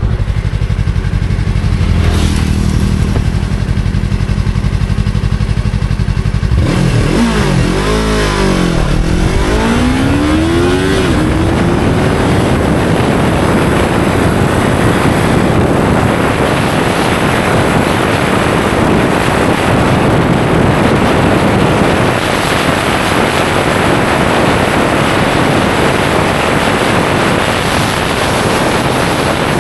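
Yamaha R3's parallel-twin engine running steadily, then, about six seconds in, pulling away at full throttle, its revs climbing and dropping several times through the gear changes. From about twelve seconds in, a loud rush of wind on the microphone at high speed covers the engine.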